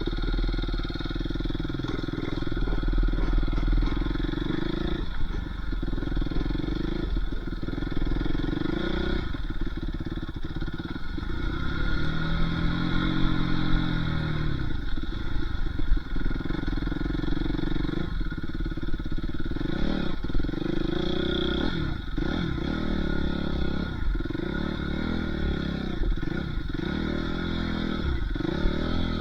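Dirt bike engine running and revving up and down, with one long rise and fall in revs midway and quick throttle changes near the end.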